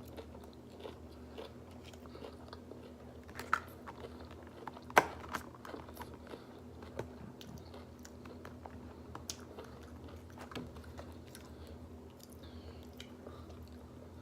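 Close-up chewing and mouth sounds of a person eating, with scattered sharp clicks, the loudest about five seconds in, over a steady low hum.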